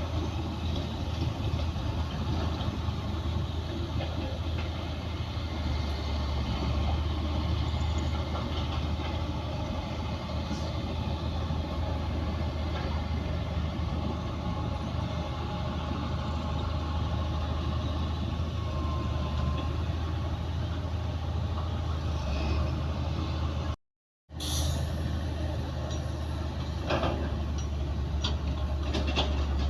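Heavy diesel earthmoving machinery working: a steady low engine drone with scattered metallic clanks. The sound cuts out for a moment about three-quarters of the way through, then comes back with a few sharp clanks.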